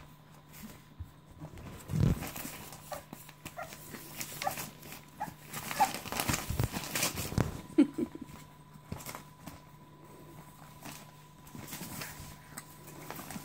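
American Staffordshire Terrier puppies moving about, with knocks and thumps and a run of short, high squeaks and whimpers.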